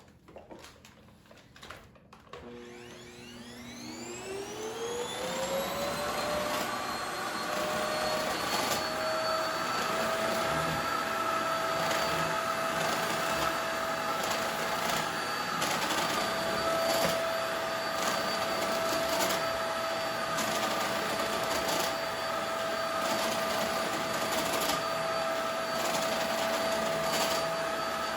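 Corded cyclone vacuum cleaner switched on, its motor spinning up with a rising whine over a few seconds, then running steadily with a strong high whine and occasional knocks of the nozzle. The uploader says this cyclone vacuum made a strange noise.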